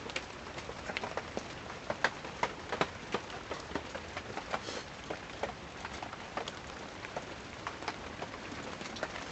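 Heavy rain on the canvas of a tipi: a steady hiss dotted with many irregular taps of drops.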